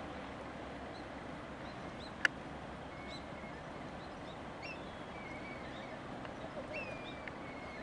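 Birds calling in thin, short whistles that glide and hold, several times in the second half, over a steady background hiss. A single sharp click a little over two seconds in.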